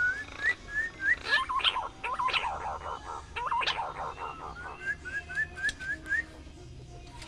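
Punai daun green pigeon calling in whistles: a run of short rising notes, then a louder warbling whistled phrase, then another quick run of short rising notes.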